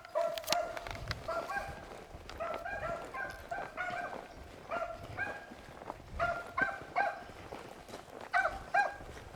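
Beagles baying on a rabbit's trail: a steady run of short, repeated hound calls, about two a second.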